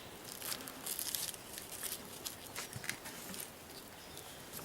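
Faint rustling with scattered light clicks, a few of them close together in the first half: gear being handled.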